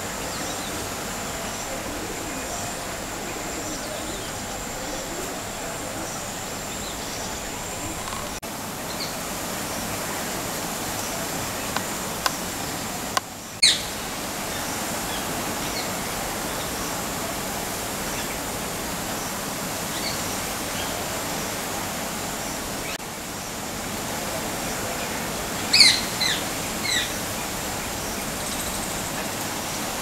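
Birds chirping with short, high calls, scattered and sparse, with one sharp call about halfway through and a quick run of several calls near the end, over a steady outdoor hiss.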